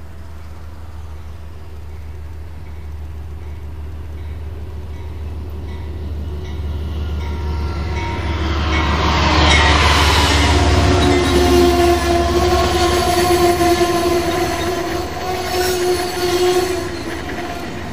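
Long CSX freight train passing at track speed. The low rumble of its diesel locomotives builds to a peak about ten seconds in as they go by, then the passing cars carry on with steady high ringing tones over the rail noise.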